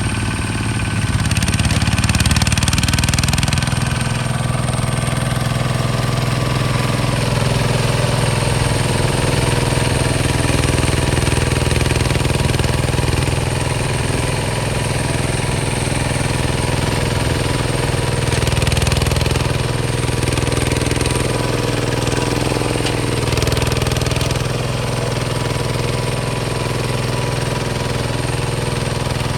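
Hinota HG Gold 155 DI tractor's direct-injection diesel engine running steadily with a hard knocking rattle, swelling slightly a couple of times.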